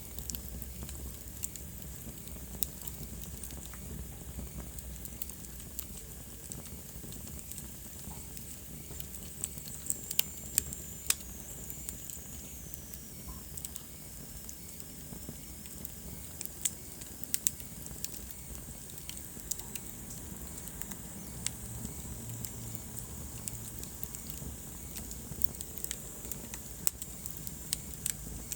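Wood fire burning in a fireplace: irregular sharp crackles and pops over a steady low rush of the flames. A faint high whistle slides down in pitch about ten seconds in.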